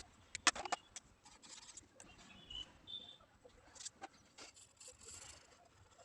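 Pencil scratching and tapping on paper in short, irregular strokes, with a quick cluster of louder scratches about half a second in.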